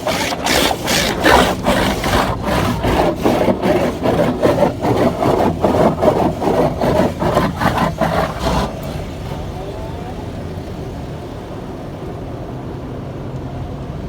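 Car wash cloth brushes scrubbing and slapping against the car, heard from inside the cabin as a loud, irregular rubbing. They stop about nine seconds in, leaving a steady low hum.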